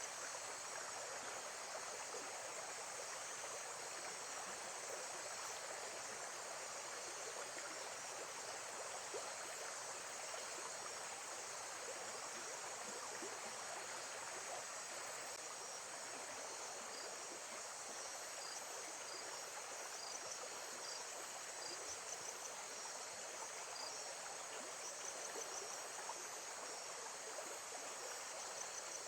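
Steady rush of water with insects chirping high above it in short repeated trills, a nature-sound bed of lakeside water and crickets.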